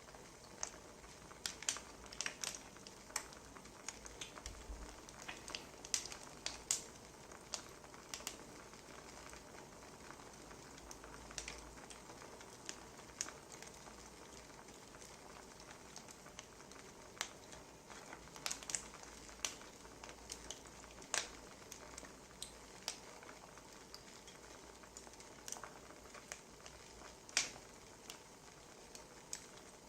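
Wood fire crackling: irregular sharp pops and snaps, several a second at times, over a soft steady hiss.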